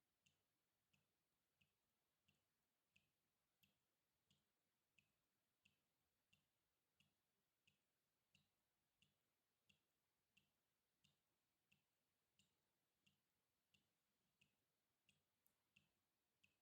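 Faint water drips falling in a steady, even rhythm, about three drops every two seconds, each a short high plink with a soft low knock beneath it.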